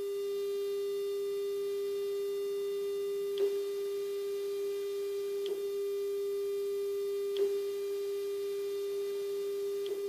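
Steady 400 Hz test tone from a Nakamichi CR7 cassette deck recording at -5 dB, with faint higher overtones above it. Four short clicks break it at intervals of about two seconds.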